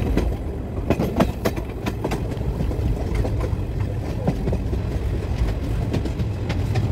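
Moving train heard from a coach doorway: a steady low rumble of wheels on rails, with irregular sharp clicks and clacks, bunched most thickly in the first couple of seconds.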